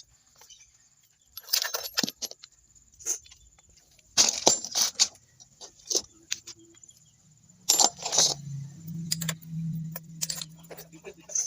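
Scattered metallic clinks and clatters of steel tools and transmission parts being handled and set down during disassembly. A low steady hum comes in about two-thirds of the way through.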